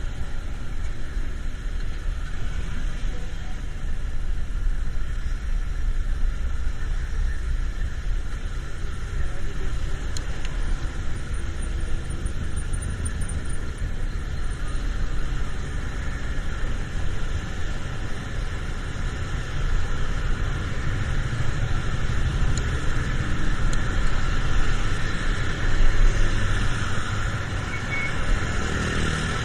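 Road traffic in the rain: a steady car rumble under an even hiss, with no clear breaks.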